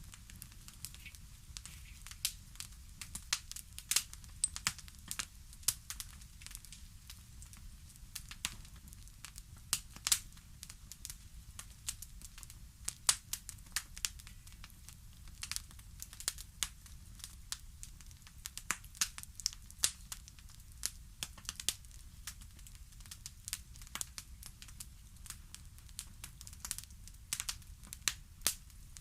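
Fire crackling, with irregular sharp snaps and pops over a low, steady rumble.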